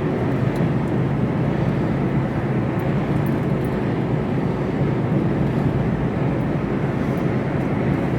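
Mercedes Actros lorry cruising, heard inside the cab: a steady engine drone with constant road and wind noise.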